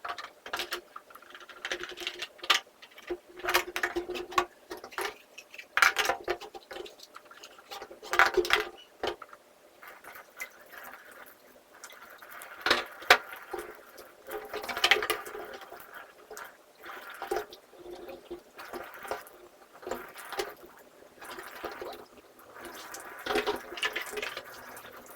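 Water running and splashing in uneven bursts as plastic vacuum cleaner parts and hose are washed and rinsed by hand, with occasional knocks of the parts.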